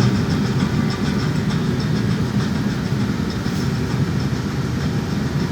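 Jet airliner heard from inside the cabin on the ground roll: a steady, loud rumble of engines and wheels, with a quick run of about four or five ticks a second that fades out about three seconds in.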